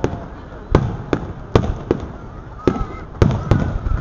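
Aerial fireworks bursting: a rapid, irregular series of about seven sharp bangs in four seconds, each trailing off in a low rumble.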